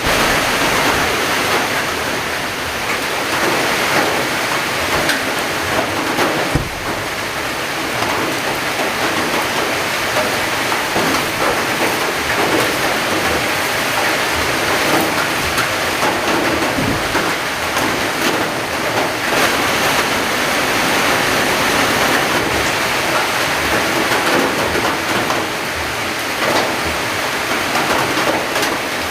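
Heavy rain falling steadily, a dense even hiss, with a couple of brief dull low thumps.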